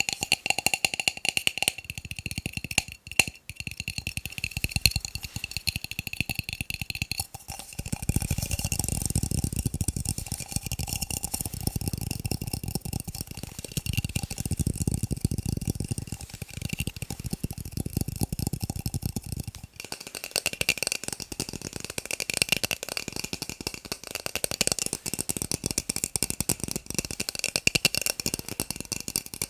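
Fast tapping on plastic cups: a dense, rapid patter of light clicks that changes in tone about seven seconds in and again near twenty seconds.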